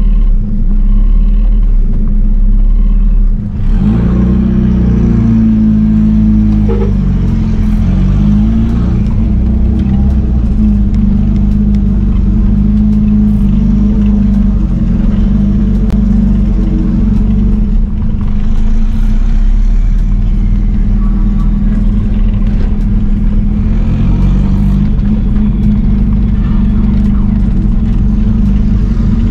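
Car engine running with a loud, steady low rumble; its pitch rises and falls between about four and nine seconds in, then holds fairly even.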